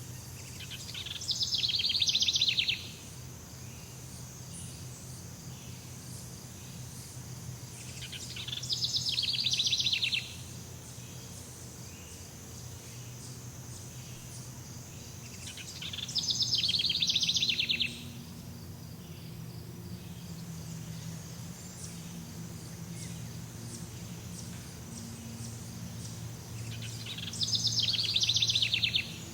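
Jungle ambience: a rapid, pulsed buzzing call that swells in loudness and cuts off sharply, repeated four times about every seven to eight seconds, over a steady high insect whine and a low hum.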